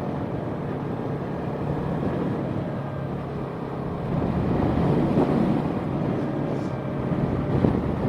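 Small Yamaha parallel-twin sport motorcycle running at a steady speed, its engine hum mixed with wind buffeting the microphone. The wind grows louder and gustier about halfway through.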